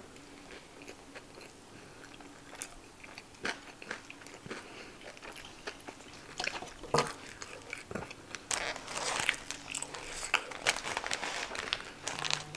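Close-miked chewing of a mouthful of fries topped with crunchy hot Cheetos: scattered crunches and wet mouth clicks, busier in the second half. Crinkly paper burger wrapper is handled as a cheeseburger is picked up.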